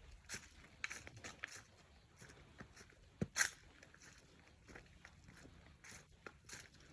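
Footsteps crunching through dry fallen leaves on a forest trail, in short irregular crunches, the loudest about three and a half seconds in.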